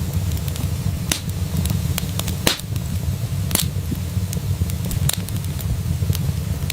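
Fireplace fire crackling: several sharp pops and snaps, the strongest about two and a half seconds in, over a steady low rumble of the flames.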